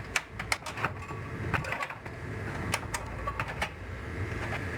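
Scattered clicks and knocks of plastic and metal parts being handled while a TV/VHS/DVD combo unit is taken apart, over a steady low mechanical hum.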